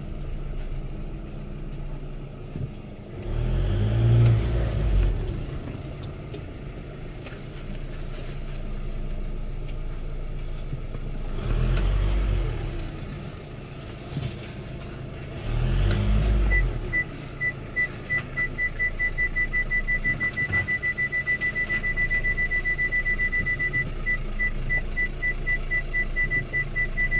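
A car's 2.0 BKD four-cylinder turbodiesel engine runs steadily and swells louder three times, each swell lasting a second or two. A little after halfway, a rapid single-pitch electronic beeping starts and keeps going.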